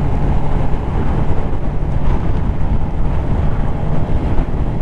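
Suzuki GSX-R750's inline-four engine running at a steady pace while riding, with heavy wind noise on the microphone.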